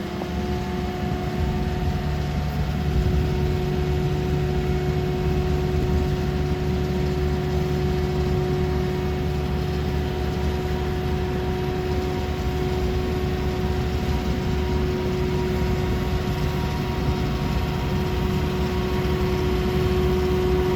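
An engine idling steadily, with a constant low rumble and an even, unchanging hum.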